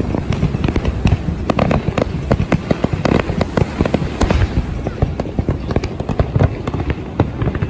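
Fireworks going off in a dense, continuous barrage of bangs and crackles, many reports a second with no let-up.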